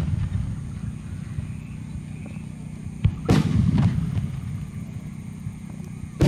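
Aerial firework shells bursting one at a time, about three seconds apart. The rumble of the previous burst fades first, then a sharp crack and a heavy boom about three seconds in, with a rolling echo trailing off. The next burst comes right at the end.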